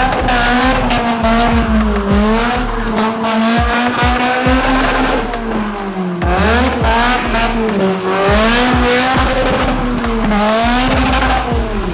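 A car engine held at high revs, its pitch wavering up and down, while the tyres squeal in a spinning or drifting run; the pitch dips briefly about six seconds in.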